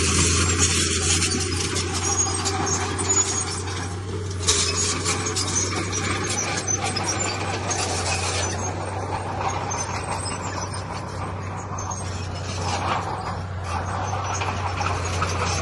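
Heavy diesel earthmoving machinery running with a steady low drone, under a rough hiss and rattle that is louder for the first half and eases off after that.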